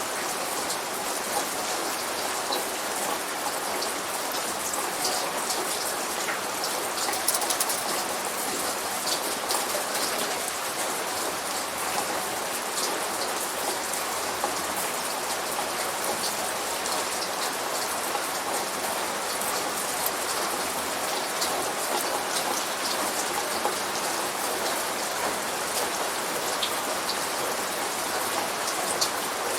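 Steady light rain, with many individual drops ticking on a hard surface.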